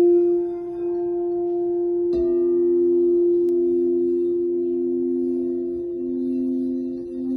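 Tibetan singing bowls in F and C: the F bowl sustains a steady ringing tone, and about two seconds in the C bowl is struck and rings on beneath it, the two notes sounding together.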